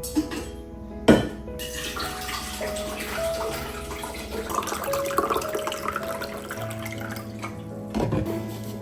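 Kitchen tap running into a sink for about six seconds. It starts just after a knock about a second in and stops around a second knock near the end.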